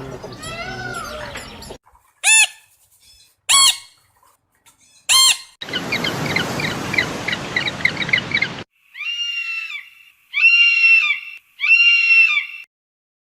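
A run of separate animal calls, mostly birds or fowl. It opens with pitched wavering calls, then three short sharp cries, then about three seconds of noisy chatter full of quick chirps, and ends with three level-pitched calls.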